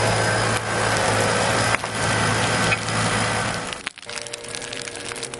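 Large wood bonfire burning: a loud, steady rush with cracks and pops of wood splitting in the flames. About four seconds in, the sound drops abruptly to quieter, sharp crackling.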